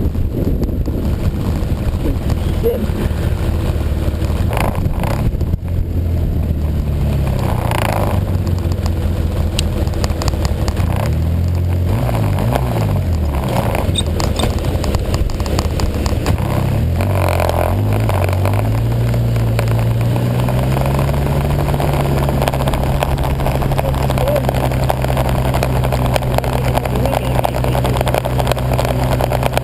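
Snowmobile engine under way, its pitch rising and falling with the throttle for about the first twenty seconds, then holding steady at a higher speed, over a constant rushing noise.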